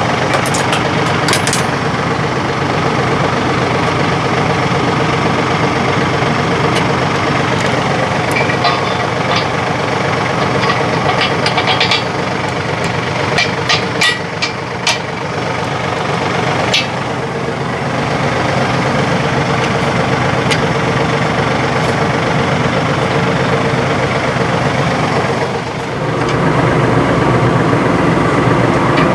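Compact tractor engine running steadily, with a few sharp metallic clicks and knocks in the first half. The engine gets louder in the last few seconds.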